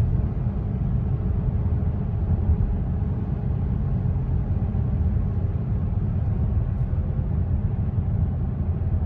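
Steady low rumble inside the cabin of a Bentley Continental Supersports, a twin-turbo W12, cruising at an even speed: engine and road noise with no revving.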